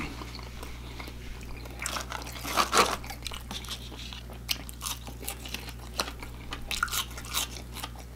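A person chewing crispy fried food close to the microphone: irregular crunches and wet mouth clicks, loudest about two to three seconds in.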